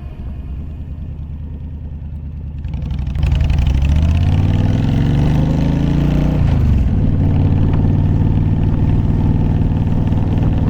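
Honda VTX 1300's V-twin engine under way: running low for a few seconds, then louder and rising in pitch as it accelerates, dropping suddenly at a gear change, then running steady.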